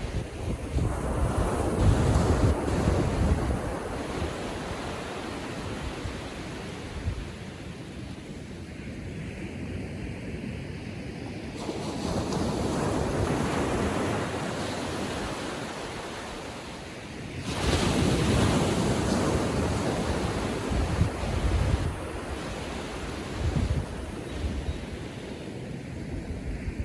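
Small Atlantic waves breaking and washing up the beach on calm seas, swelling and ebbing three times, with wind gusting on the microphone now and then.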